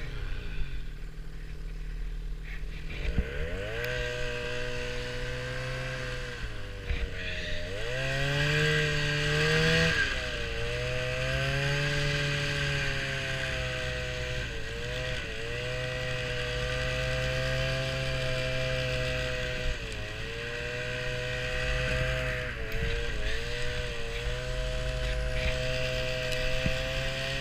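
A vehicle engine under way, climbing in pitch as it accelerates about three seconds in and again around eight seconds, dropping back around ten seconds as if shifting up. It then runs fairly evenly, with a few brief dips in revs.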